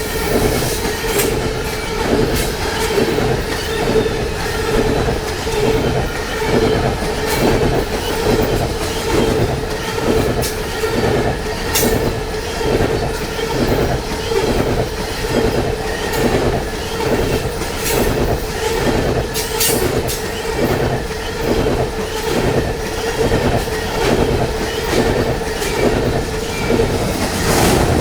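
Train rolling past on the track, its wheels clicking over rail joints in a steady, even rhythm, with a steady whine and occasional sharp metallic ticks above it.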